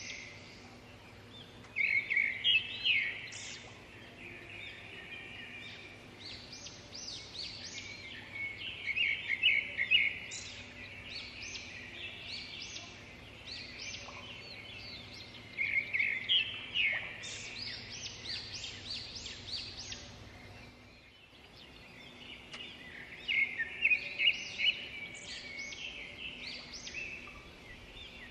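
A songbird singing, bursts of rapid high chirping phrases repeated every several seconds, with quieter chirps in between.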